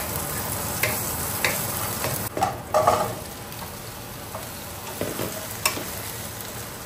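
Ginger and green chillies sizzling in hot mustard oil in a nonstick wok, stirred with a wooden spatula that clicks against the pan. About two and a half seconds in, chopped pumpkin is tipped in with a short clatter, and the sizzle quietens as the pumpkin is stirred.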